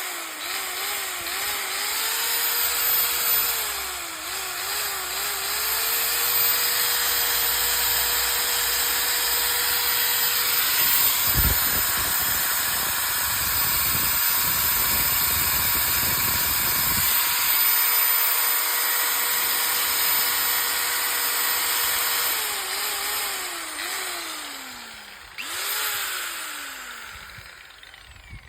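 5-inch 1300 W angle grinder running at speed with a steady high whine; its pitch dips and recovers several times. A rougher, noisier stretch lasts several seconds in the middle. Near the end it is switched off and the whine falls away as it winds down.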